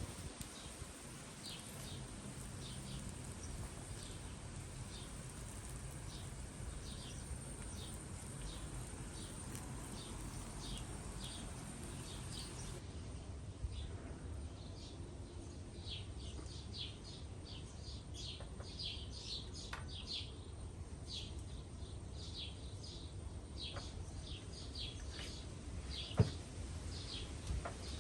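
Small birds chirping again and again in short, high calls over a steady low background hiss, with a single sharp knock near the end.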